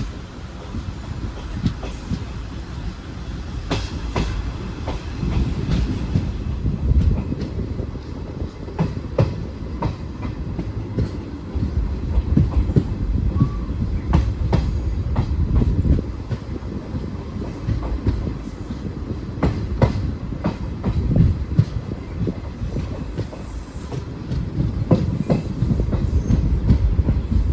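Railway train running on the track: a steady low rumble of wheels with repeated clicks over the rail joints.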